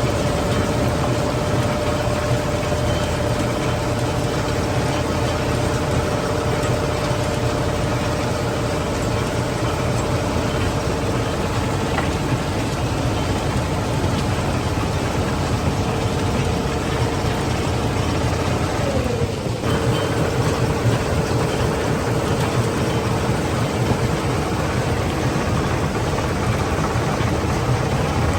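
Heavy stone-crushing plant machinery running steadily: a deep engine rumble with a steady mid-pitched whine over it. About two-thirds of the way through the sound dips briefly with a short falling tone, then carries on.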